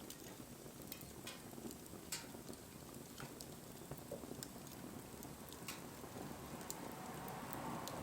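Wood bonfire crackling, with scattered sharp pops and snaps over a low, steady hiss of the flames that grows slightly near the end.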